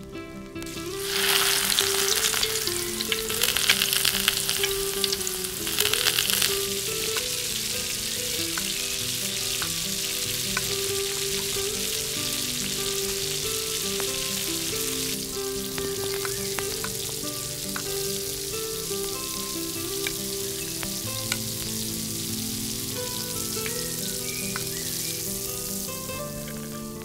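Food frying and sizzling in a miniature pan, starting about a second in, loudest for the first few seconds and then steady. Gentle melodic background music plays throughout.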